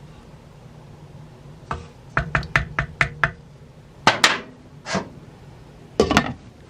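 Sharp kitchen knocks and clatters of utensils against cookware: a quick run of about seven knocks, then a few more scattered clanks.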